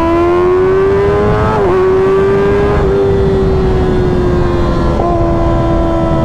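Kawasaki Ninja ZX-6R's 636 cc inline-four engine pulling at high revs, its pitch climbing for a second and a half, then dipping briefly twice before settling into a steady note that slowly falls, over wind noise.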